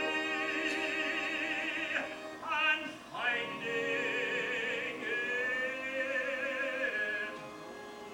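Classical-style solo singing with a wide vibrato, long held notes with a short break partway through; the last held note ends near the end.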